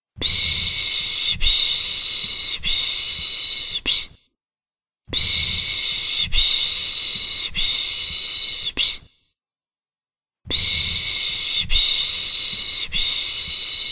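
A person shushing to soothe a baby, the 'piş piş' sound: rhythmic hissing shushes of about a second each, three or so in a row, then a pause of about a second before the next run.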